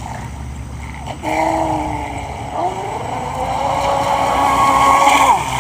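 Radio-controlled boat's motor whining, faint for about the first second, then running up with a shift in pitch part way through, and falling away near the end.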